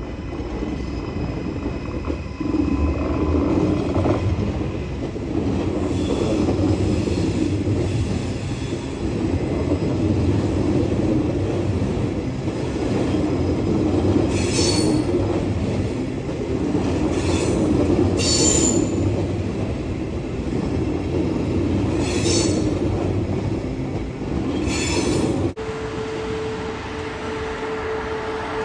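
Queensland Rail NGR electric passenger train rolling slowly through curved station trackwork, with a steady rumble of wheels on rail and short high-pitched wheel squeals every few seconds in the second half. Near the end the sound cuts to another electric train passing with a steady whine.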